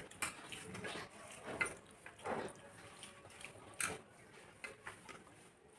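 Eating sounds: a few scattered light clicks and clinks of food being taken from plates by hand, about one a second.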